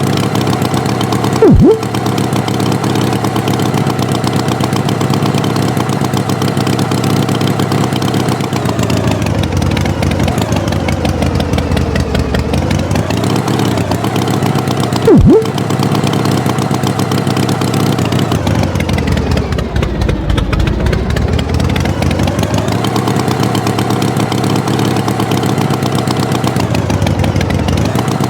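Tractor engine running steadily, its pitch sinking and rising again twice as it slows and speeds up. A brief loud blip that slides quickly down in pitch cuts in twice, once early and once about halfway through.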